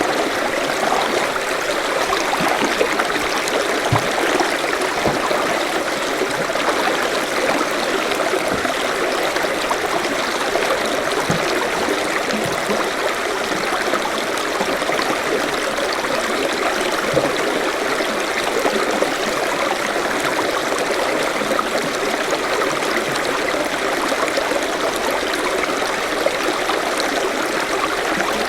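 Forest stream running steadily, water rushing and trickling over stones, with an occasional soft low plop.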